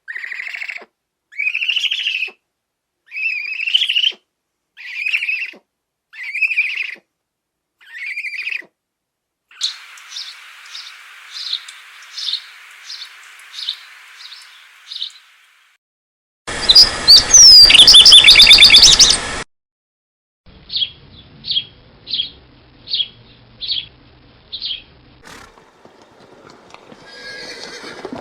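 A string of separate animal calls, mostly bird-like: about eight high calls roughly one per second, then rapid chirping, then a very loud harsh screech lasting about three seconds, then another run of six short chirps.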